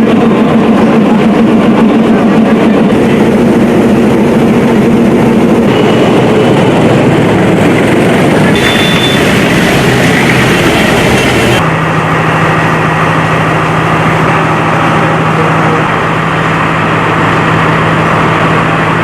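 Diesel trains running at railway stations, a steady low engine hum whose pitch and background change abruptly several times as short clips are cut together.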